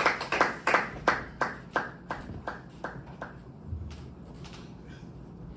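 Small audience applauding, the claps thinning into an even beat of about three a second and dying away a little over three seconds in.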